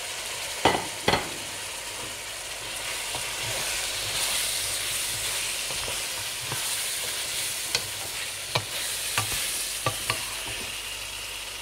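Minced meat and chopped green bell pepper and onion sizzling in a pan while a wooden spoon stirs them. There are sharp knocks twice about a second in and several more near the end.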